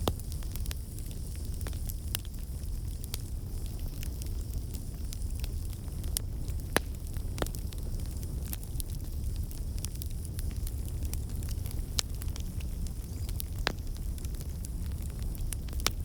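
Wood fire in a fireplace crackling, with a steady low rumble under many irregular sharp pops and snaps, one louder pop about seven seconds in.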